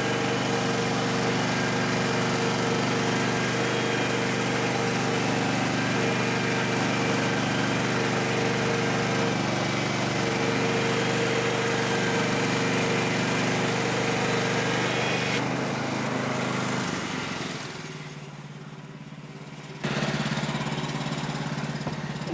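Engine of a Woodland Mills HM126 portable bandsaw sawmill running steadily, with a hiss over it. About fifteen seconds in the hiss drops away and the sound fades; after a sudden change about twenty seconds in, the engine runs on more quietly at a different pitch.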